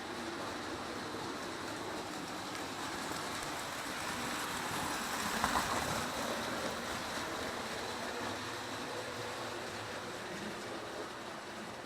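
Several model trains running at once on a test layout: a steady rumble and clatter of metal wheels on track with motor hum, and a brief louder rattle about five and a half seconds in.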